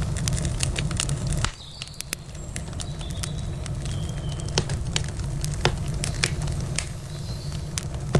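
Wood campfire crackling, with many sharp pops and snaps scattered throughout. A low rumble underneath drops away suddenly about a second and a half in.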